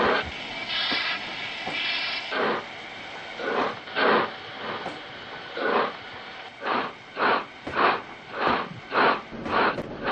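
Steam locomotive hissing steam, then chuffing, the chuffs coming faster and faster as it gets under way.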